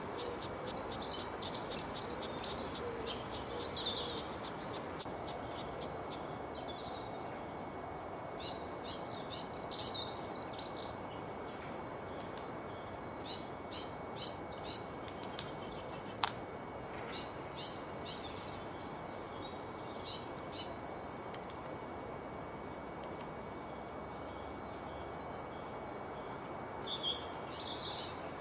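A songbird singing: short high-pitched phrases of rapid notes, repeated every few seconds, over a steady background hiss.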